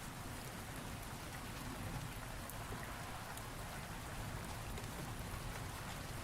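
Steady rain falling on a surface, with scattered individual drops and a low background rumble of a thunderstorm.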